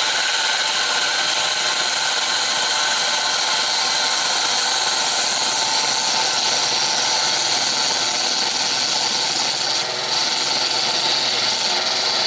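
Wood lathe spinning an oak block while a turning tool is pushed straight in to cut a tenon: a steady cutting and scraping noise over the motor's whine, with a brief dip about ten seconds in.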